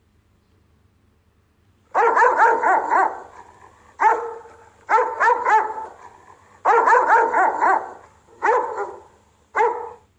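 Rottweiler barking in guard fashion: after about two seconds of quiet, quick clusters of several deep barks, the last two barks coming singly.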